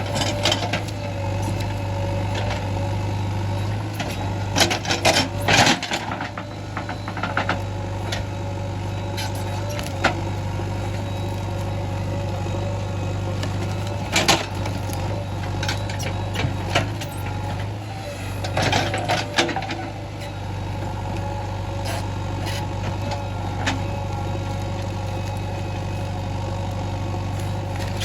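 JCB 3DX backhoe loader's diesel engine running steadily, with scattered knocks and clanks, several in quick clusters about five seconds in and again past the halfway mark.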